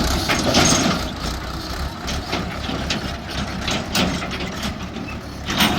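Heavy diesel engine running steadily, with repeated short metallic clanks and scrapes over it.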